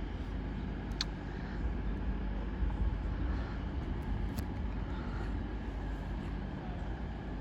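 A GWR Intercity Express Train (IET) running into the station on its underfloor diesel engines: a steady low rumble, with a short click about a second in and another about four seconds in.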